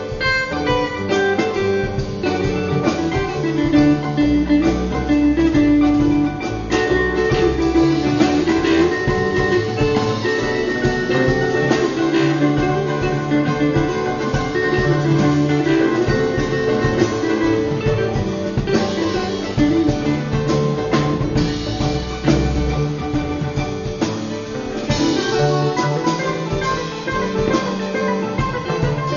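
Live band playing an instrumental passage with no singing: guitar over drums and percussion.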